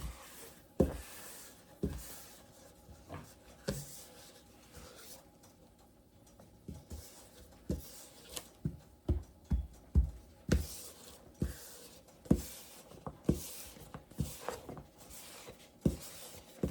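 Dumpling dough being rolled out thin on a countertop: irregular knocks and thuds, about one or two a second, with rubbing in between as the roller presses and rolls across the dough.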